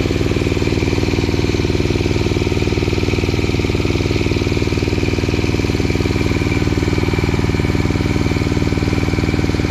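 Engine of an animal-manure grinding machine running steadily at an even speed, with a fast regular firing beat.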